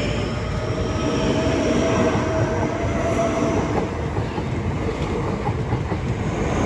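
Class 465 Networker electric multiple unit pulling out on its wheels and running gear, with a steady whine that fades after about four seconds.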